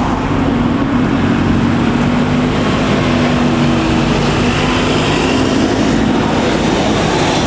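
A large engine running steadily close by: a loud, even drone with a low hum, and a faint higher whine in the middle.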